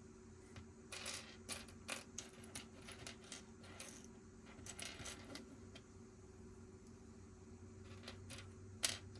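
Small plastic Lego pieces clicking and clinking as they are handled and pressed together: a quick run of light clicks, then one sharper click near the end.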